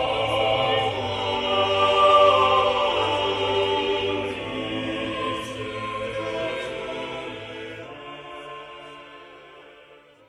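Choir singing Renaissance-style polyphony in long sustained chords, fading out gradually to silence near the end.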